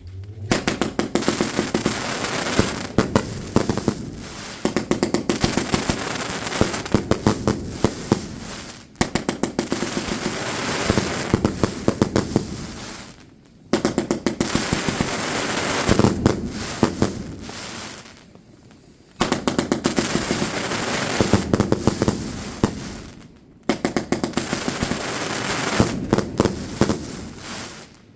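Fireworks going off in about five volleys. Each volley opens with a quick string of sharp bangs, then turns to dense crackling that fades over four or five seconds before the next one starts.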